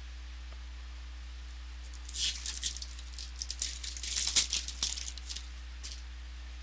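Trading card pack wrapper crinkling and cards being handled, a burst of sharp crackling and rattling starting about two seconds in and lasting about four seconds, over a steady low electrical hum.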